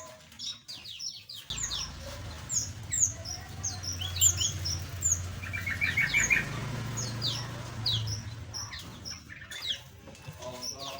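Small aviary birds chirping: many short, high calls overlapping. A low rumble underlies them from about a second and a half in, fading out about two seconds before the end.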